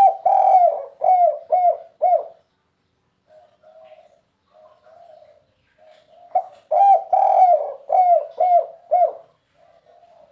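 Spotted dove cooing: two loud phrases of quick, rounded coos about six seconds apart, with softer coos in between.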